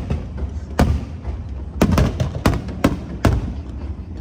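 Aerial fireworks going off: about seven sharp bangs, several in quick succession in the second half, over a continuous low rumble of more distant bursts.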